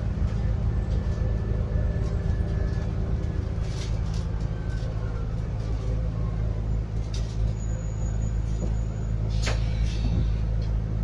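Scania N280UD Enviro400 bus's compressed-biogas engine running steadily, heard from inside the passenger cabin, its low note changing about four seconds in. A couple of sharp clicks or rattles come in the second half.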